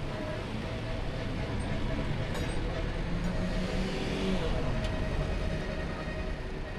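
Small car on the move: a steady low rumble of engine and tyres on the road, with a swell of hiss about four seconds in.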